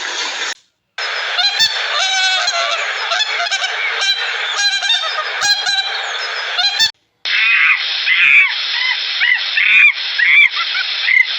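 A flock of geese honking, many calls overlapping. The calls break off for a moment twice, about a second in and again about seven seconds in, where one recording cuts to the next.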